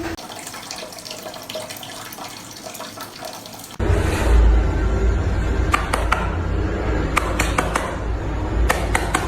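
Tap water running, as into a sink or tub for a dog's bath, with small knocks and splashes. About four seconds in, an abrupt cut brings a louder stretch of running water with a heavy low rumble and sharp clicks.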